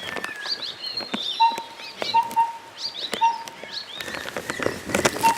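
Several wild birds calling together: quick falling chirps and whistles mixed with a short, low note repeated about every half second, with scattered sharp clicks among them.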